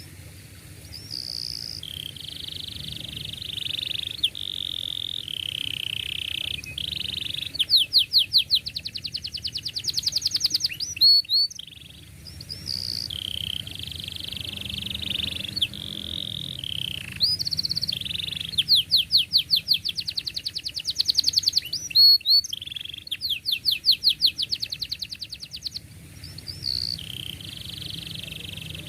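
Domestic canary singing a long, unbroken song of warbled phrases, broken up three times by fast, tightly rolled trills of rapidly repeated notes.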